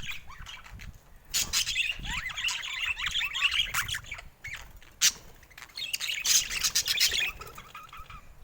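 Budgerigars chattering in two bursts of fast chirps, squawks and short warbling notes, with a sharp click about five seconds in.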